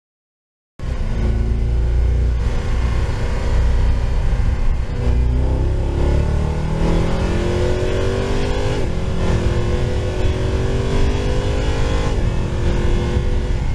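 Mercedes-Benz SLS AMG's V8 engine accelerating hard, heard from inside the cabin. It starts abruptly about a second in, and its pitch climbs through the gears, with an upshift about nine seconds in and another near the end.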